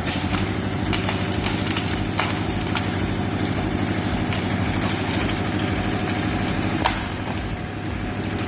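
A machine's engine running steadily at a constant speed, with a few short clicks or knocks over it.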